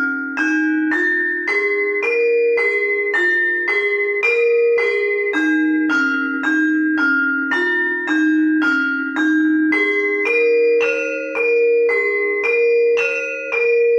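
Bronze gamelan demung being played: single struck notes, about two a second, each ringing on under the next, stepping up and down through a melody.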